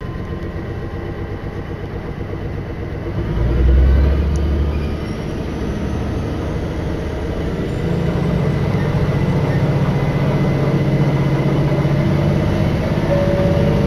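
Diesel railcar heard from inside the passenger cabin: the engine idles while the train stands at a station, then throttles up about three seconds in with a loud low rumble as the train pulls away. It settles into a steady engine drone under load, with a faint rising whine as the train gathers speed.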